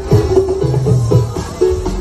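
Loud music with heavy bass and a percussive beat played through a large sound system, the bass notes booming.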